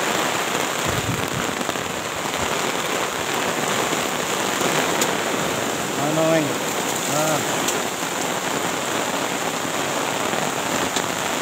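Heavy rain falling in gusting wind, a steady hiss that drums on the tarp shelter overhead.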